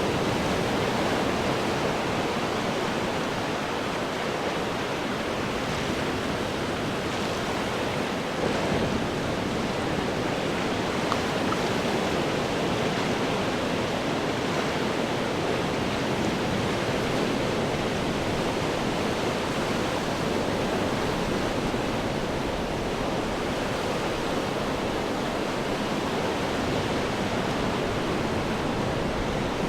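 Ocean surf breaking on rocks and washing back in a continuous roar, with one slightly louder wave about eight seconds in.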